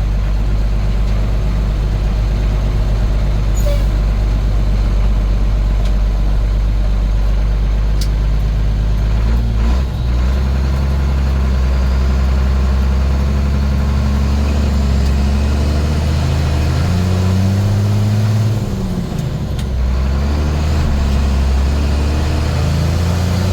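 International S1900 dump truck's DT466 inline-six turbo diesel running under way, heard from inside the cab. Its pitch shifts about ten seconds in, and it rises and falls twice later on as the truck changes speed.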